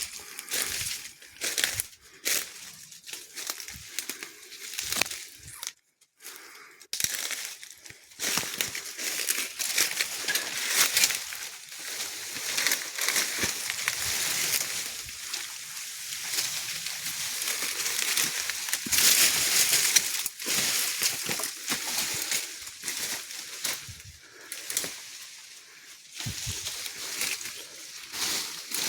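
Leaves and branches rustling and crackling, with twigs snapping, as someone pushes and climbs through fallen trees and broken brush.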